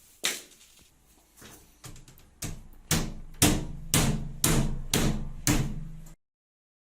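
Indesit WISL 105 X washing machine running, its drum knocking against the housing about twice a second, the knocks growing louder over a steady low hum before stopping abruptly. The knocking comes from worn, rusted drum bearings that let the tub swing off centre.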